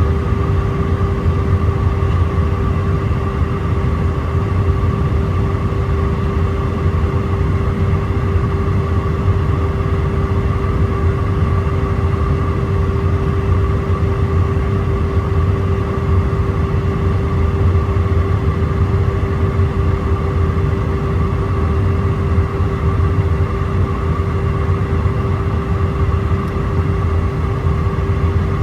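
Inside the cabin of an Airbus A319 on approach: the steady rumble of its IAE V2500 jet engines and airflow, with a constant humming tone over it.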